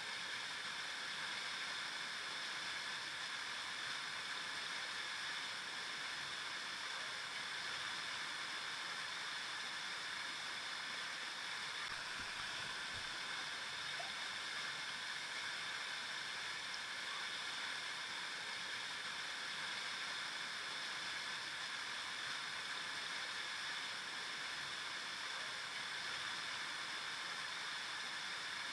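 A flowing river: steady, even rushing of water with no change or break.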